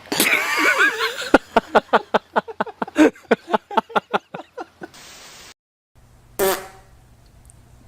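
Animal fart: a wavering pitched blast that breaks into a rapid sputtering run of pops, about five a second, fading out over a few seconds. A second short burst follows near the end.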